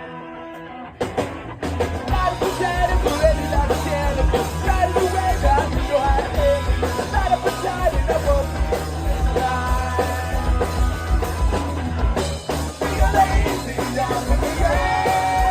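Live pop-punk band playing: after a quieter first second, drums, bass and distorted electric guitars come in with a steady beat, with singing over them.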